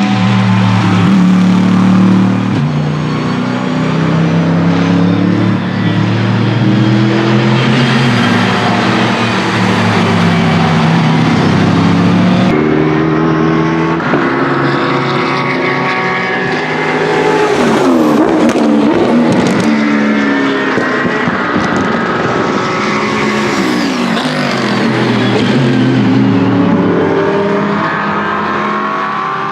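Racing cars' engines at full throttle passing by, pitch climbing and dropping through gear changes, with a sweeping fall in pitch as a car goes past about two-thirds of the way through. The sound changes abruptly about halfway, as one pass gives way to another.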